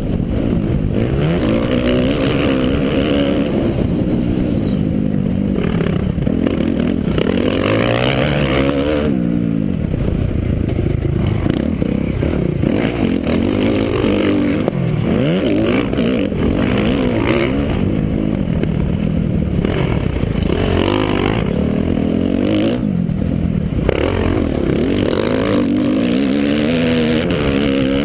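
Motocross bike engine revving up and down over and over as it is ridden round a dirt track, with the pitch rising and falling every few seconds through the throttle and gear changes.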